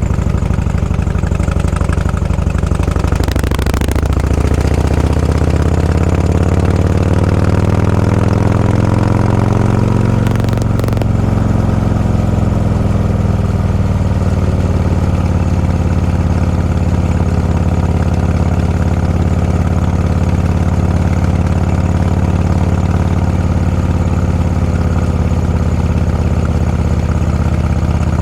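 Vehicle engine running under way, its pitch rising steadily for several seconds as it accelerates, then holding steady at cruise. A short click comes about three and a half seconds in and another near eleven seconds.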